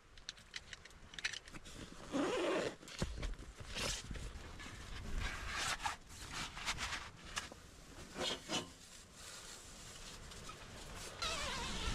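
Zippers being pulled and fabric rustling in short irregular bursts, as gear is packed up inside a tent.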